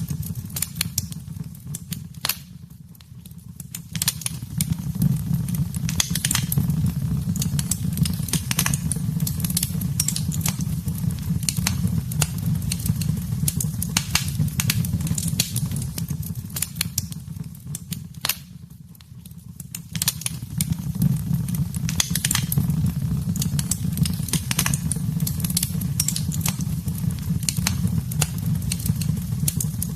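Wood fire burning in a fireplace: a steady low rumble of flames with frequent sharp crackles and pops, twice dying down briefly before picking up again.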